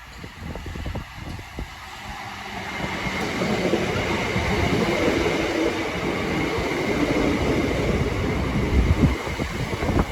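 Southeastern Class 377 Electrostar electric multiple unit approaching, its running noise building from about two seconds in and staying loud, with a steady whine running through it. Wind buffets the microphone in the first couple of seconds.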